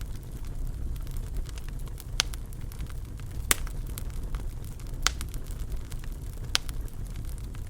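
Wood fire crackling in a fireplace: a steady low rumble of burning with sharp pops about every one and a half seconds and fainter ticks between them, the loudest pop about halfway through.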